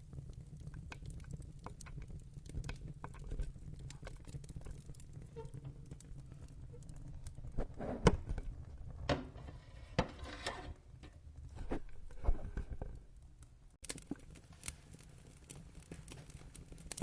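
Wood fire in a fireplace crackling: a steady low rumble of the flames with scattered sharp pops and snaps, busier and louder through the middle.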